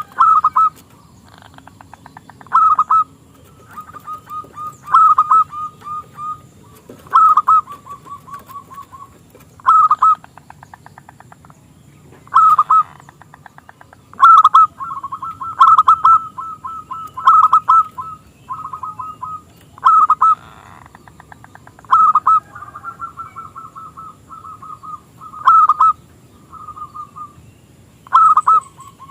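Zebra dove (perkutut) cooing over and over, a local bird used as a lure call. Loud clipped notes come every two to three seconds, with quick, softer rolling runs of notes between them.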